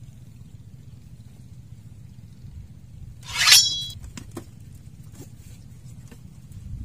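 A fishing pole whipped up hard in a strike: a sharp swish rising in pitch about three seconds in, followed by a few light clicks and taps.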